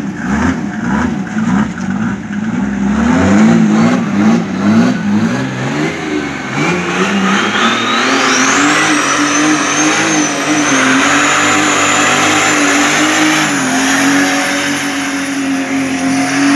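Mercedes-Benz OM606 inline-six diesel revving in quick repeated rises, about two a second. It is then held at high revs through a burnout, the rear tyres squealing in a note that climbs and then holds high.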